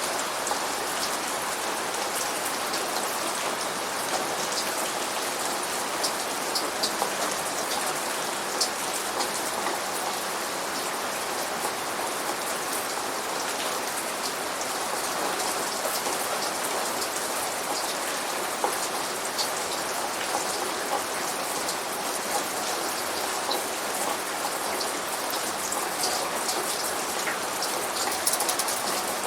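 Steady rain falling and pattering on surfaces, with many small drip ticks scattered through it.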